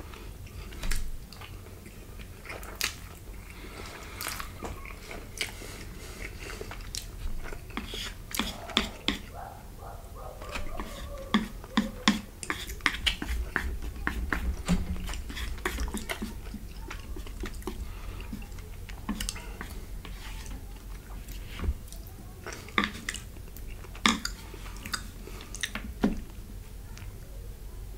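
Close-miked chewing and biting of fettuccine Alfredo and garlic cheese bread, with many sharp, wet clicks.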